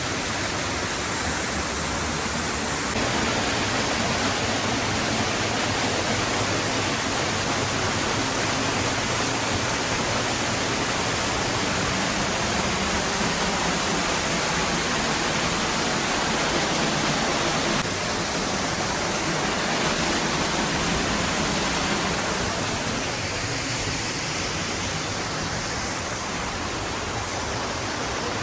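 Waterfall: a steady, full rush of falling water, stepping up a little about three seconds in and easing slightly near the end.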